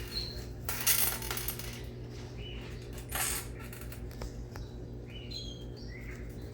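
Baby caiques chirping with short, high calls and little pitch steps, mostly in the second half. There are two brief hissing bursts about a second and three seconds in, and a few faint clicks.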